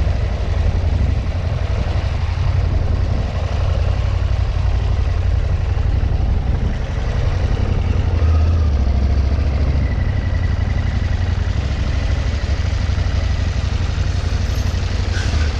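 KTM 790 Adventure motorcycle running, its engine sound steady under a strong low rumble.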